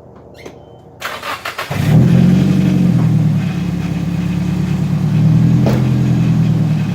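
Turbocharged Nissan SR20 four-cylinder engine being cranked by the starter about a second in, catching and flaring up, then settling into a steady idle. The owner hears a strange rattle at idle that he believes comes from the new turbo setup.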